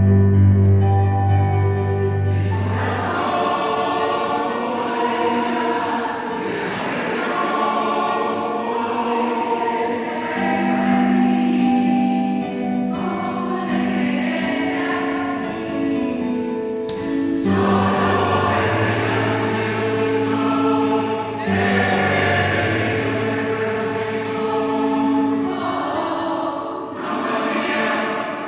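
Choir singing a song in parts, with sustained chords that shift through the passage.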